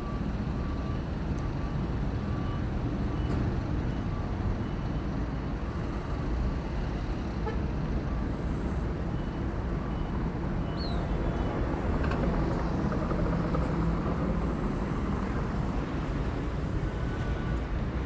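Steady low background rumble, with a few faint short chirps and tones over it.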